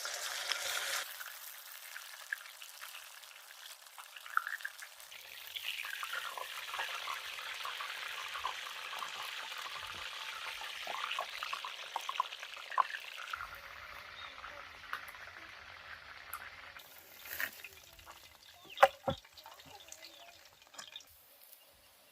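Fish frying in hot oil, sizzling with a steady crackle of small pops. The sizzle eases after about thirteen seconds, and a few sharp knocks follow.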